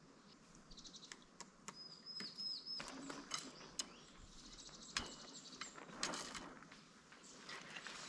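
Forest birds singing: faint high trills and repeated chirps, with a few short clicks among them.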